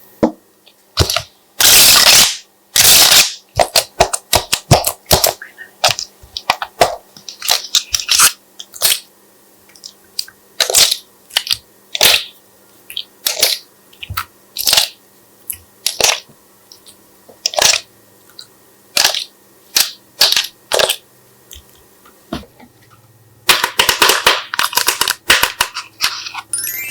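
Slime being pressed and worked by hand, giving an irregular run of sharp pops and clicks from trapped air, with a few longer crackling squishes, the longest near the end.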